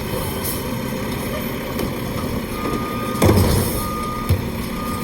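Garbage truck engine running steadily while its reversing alarm beeps three times at one pitch, starting about halfway through. A loud thump comes just after the first beep, then a smaller knock about a second later.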